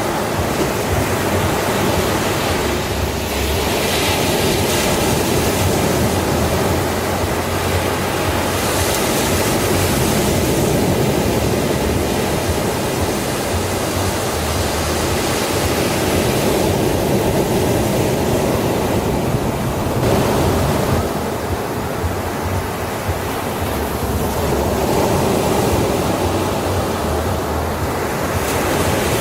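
Sea waves breaking on a beach: a continuous surf wash with a fresh breaker swelling up every five or six seconds.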